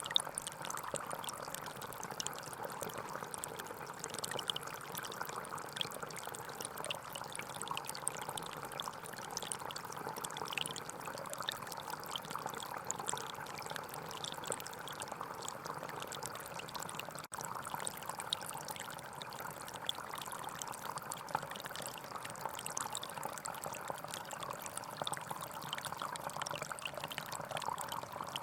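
A gentle forest stream flowing steadily, a continuous babble and trickle of water, with a split-second break a little past the middle.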